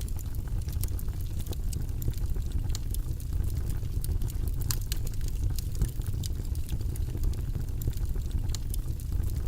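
Wood fire in a fireplace crackling: scattered sharp pops and snaps over a steady low rumble.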